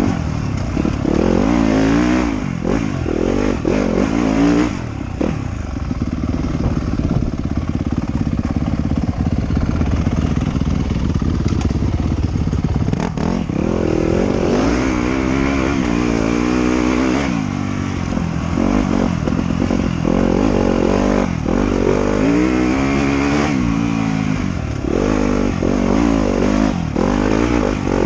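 Trail motorcycle engine ridden off-road, revving up and down through the gears as the throttle opens and closes, with a stretch of steady throttle about a third of the way in.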